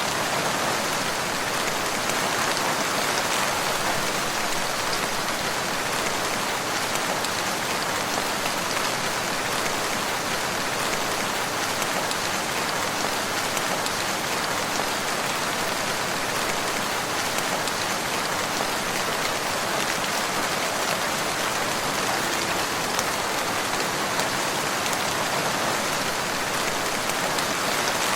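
Steady rain falling: an even, unbroken hiss of many drops that holds at the same level throughout.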